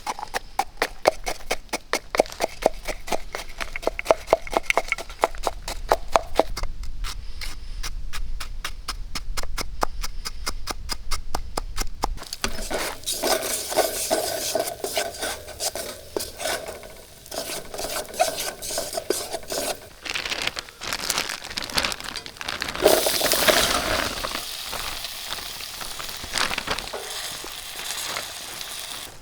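A metal utensil stirring food in a titanium cooking pot. It makes quick, even clinks against the pot, about four a second, for the first twelve seconds, then looser scraping and clattering stirs.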